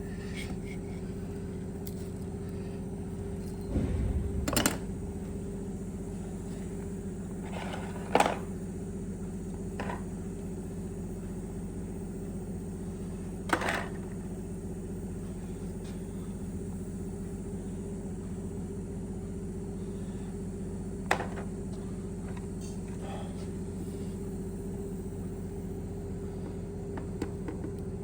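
A steady low machine hum throughout, with a few sharp metallic knocks and clinks of tools or parts being handled: the loudest about four and eight seconds in, and single ones later on.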